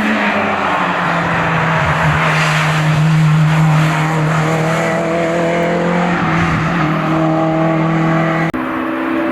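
Hillclimb race car engine running hard at high, nearly steady revs. About a second before the end the sound breaks off abruptly and a different engine note takes over.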